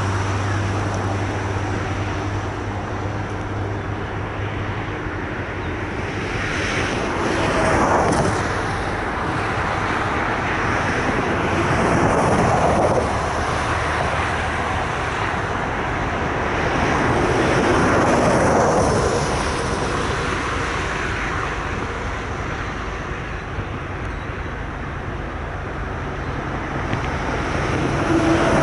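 Freight train rolling past, a steady rumble that swells and eases several times.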